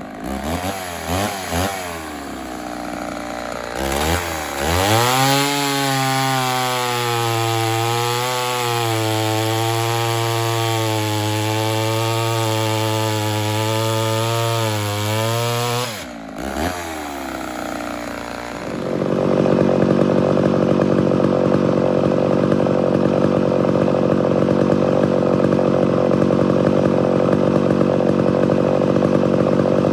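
Chainsaw engine blipped a few times, then held at high revs for about twelve seconds with its pitch wavering slightly. It drops off with a couple more blips, and from about two-thirds of the way in a louder, rougher chainsaw sound runs steadily.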